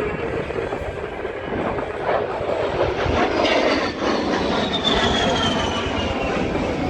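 A-10 Thunderbolt II flying past, its twin turbofan engines making a loud rushing noise. A high whine falls steadily in pitch through the second half as the jet goes by.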